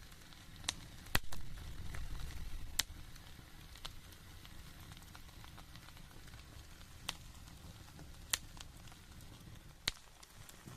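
Small wood fire burning in a mini rocket stove, crackling with scattered sharp pops over a steady low rumble.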